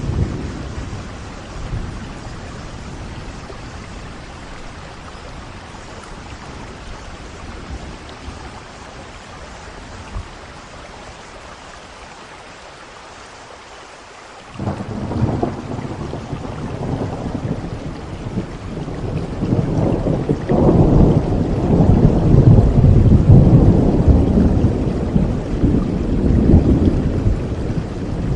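Steady rain falling, with a long roll of thunder that breaks in suddenly about halfway through, builds, and is loudest in the last third.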